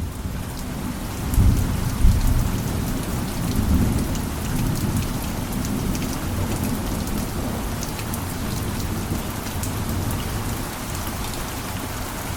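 Steady rain falling, with a rumble of thunder that swells about one and a half to two seconds in and then rolls on low beneath the rain.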